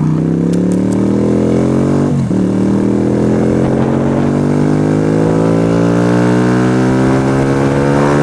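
Yamaha YBR125's single-cylinder four-stroke engine accelerating under load. Its pitch climbs, drops with an upshift about two seconds in, then rises slowly again as the bike gathers speed.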